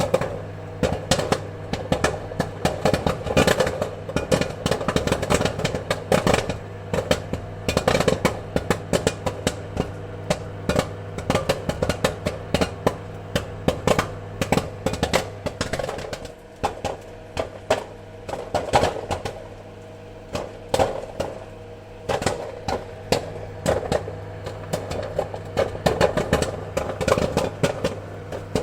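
Popcorn kernels popping in quick, irregular clusters of sharp pops over a steady low hum, a few stretches thinning to scattered pops.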